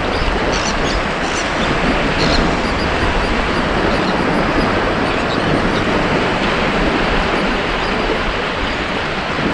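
Ocean surf on a beach: a steady wash of breaking waves, with faint high fizzing in the first couple of seconds.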